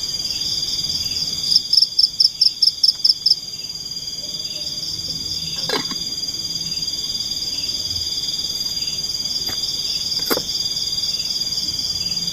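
Night forest chorus of insects trilling steadily on a high note. About a second and a half in comes a louder pulsing call of about eight rapid notes, and a few sharp knocks fall later on.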